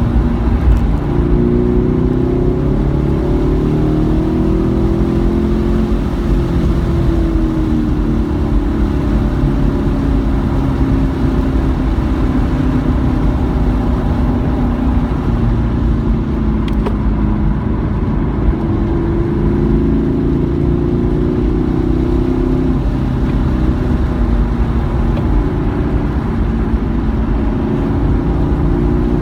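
Car engine on track, its revs rising and falling several times as it accelerates down the straights and lifts for the corners, over a steady hiss of wet-road and wind noise.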